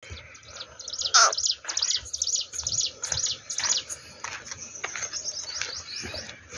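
A bird chirping, a quick run of short, high, arched notes repeated about five times a second, fading after about four seconds. A single louder call sliding down in pitch comes about a second in.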